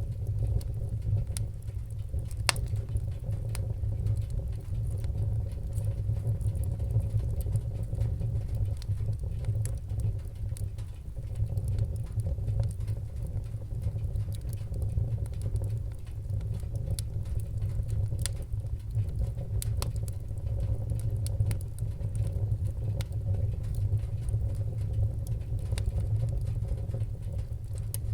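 Fire crackling in a fireplace: a steady low rumble with scattered sharp pops and ticks, one louder pop about two and a half seconds in.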